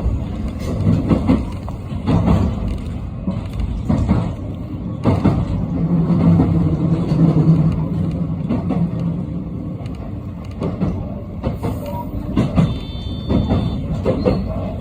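Electric train pulling slowly into a station platform: its wheels knock over rail joints and points about once a second. A steady low hum runs for a few seconds partway through.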